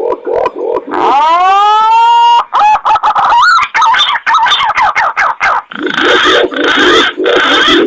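Wild pigeon lure calls, punai green pigeon and pergam imperial pigeon: a steady run of low pulsing coos about four a second. Over them come a long rising whistled call, then quick gliding warbles, and rougher, harsher calls near the end.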